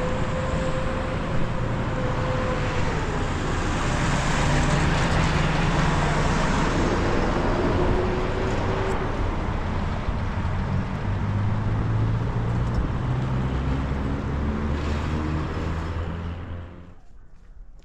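A motor vehicle driving: a steady engine hum under road and wind noise, the engine note shifting several times. It cuts off sharply near the end.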